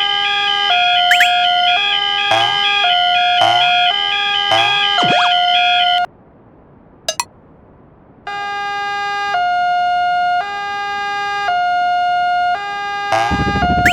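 Electronic warning tones: a fast high two-note warble over slower notes that step between pitches, with a few falling sweeps. The tones cut off about six seconds in, with a single click in the gap, and resume two seconds later as slower stepping notes. A low buzz starts near the end.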